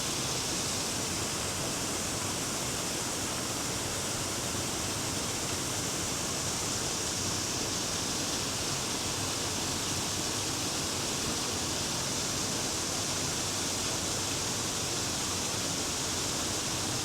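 Creek water pouring over the remnants of an old dam, a steady, unbroken rushing.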